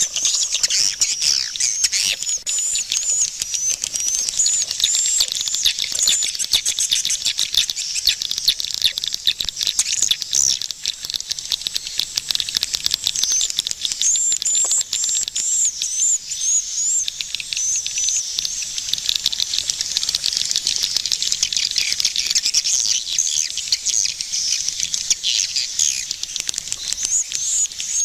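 Swiftlets twittering: many short, high chirps overlap in a dense, continuous chatter, with rapid clicking all through.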